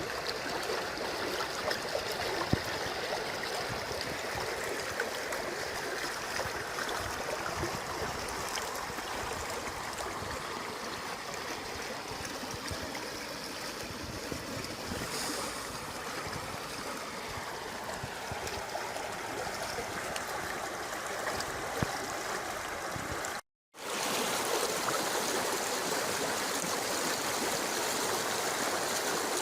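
River water in a wadi running full after heavy rain: a steady, even rush of flowing water. It cuts out for an instant about three-quarters of the way through, then carries on a little louder.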